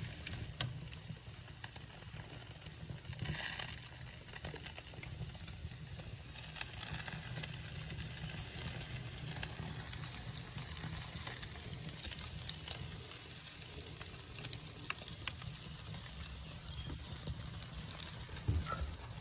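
Wood fire burning in a barbecue pit, lit with greasy butcher paper in damp conditions: a steady hiss with scattered crackles.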